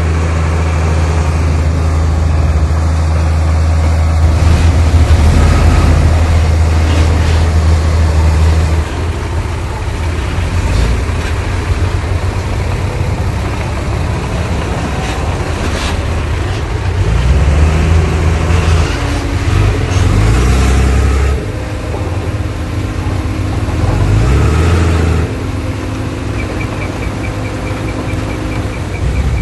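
Heavy diesel earthmoving machinery working: a big engine runs loud and steady, then drops and revs up and down again twice under load, with scattered metallic clanks.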